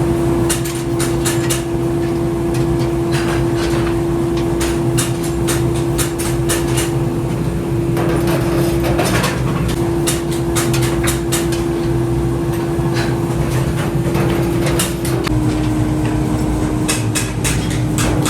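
A workshop machine running with a steady hum, with many irregular metallic clicks and knocks over it. Its pitch steps slightly lower about fifteen seconds in.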